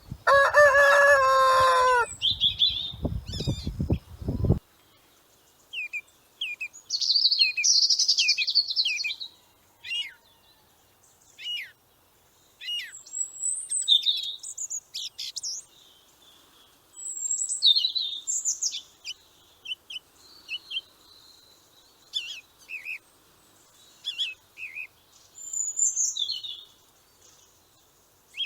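Small birds chirping and singing in quick, high notes, opening with a louder, lower pitched call of about two seconds.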